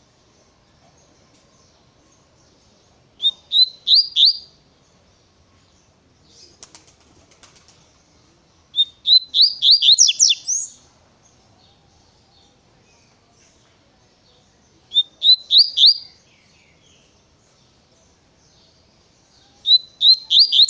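Double-collared seedeater (coleiro) singing its 'Tui Tui' song type: four short phrases of quick, clear, repeated rising notes, spaced several seconds apart.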